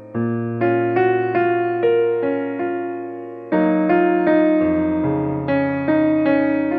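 Background piano music: a gentle melody of struck notes over held bass chords.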